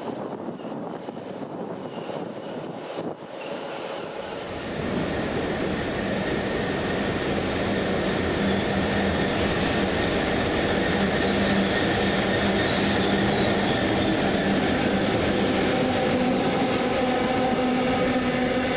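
Train running on rails: the rumble grows louder about four seconds in, then holds steady with a constant hum of several tones over it.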